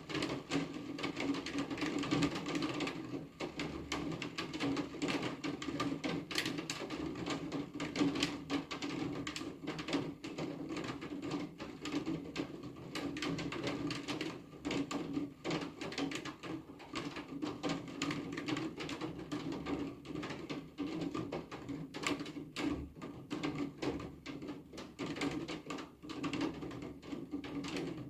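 Steady rain with many irregular sharp ticks of drops striking a surface.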